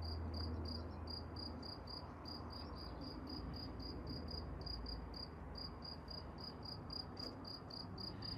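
Cricket chirping steadily: a high, evenly pulsed chirp about four times a second, over a faint low rumble.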